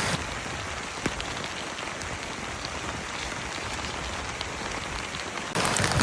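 Steady rain falling, an even hiss dotted with small drop ticks and one sharper tick about a second in. Near the end it cuts abruptly to a louder rush.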